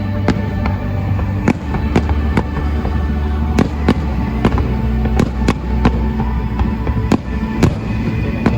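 Fireworks going off in an uneven string of sharp bangs, about two a second, over a steady low rumble.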